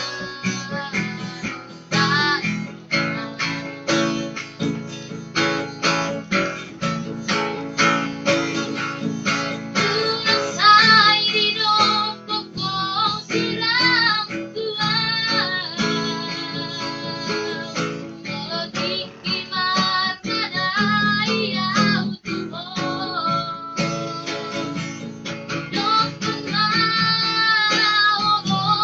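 Strummed acoustic guitar accompanying high-pitched singing, with long held, wavering notes.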